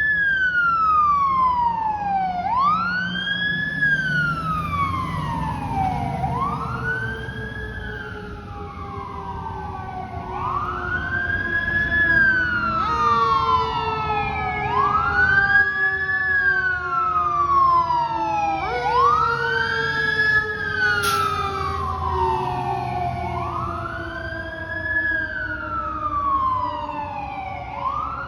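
Fire truck sirens wailing as the apparatus respond. One siren repeatedly winds up quickly and falls slowly, about every three and a half seconds, with a second siren sweeping underneath and truck engines rumbling low. A single sharp click comes about three-quarters of the way through.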